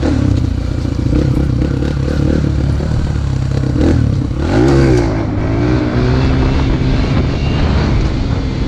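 Dirt bike engine running under way, with one quick rev up and back down about four and a half seconds in.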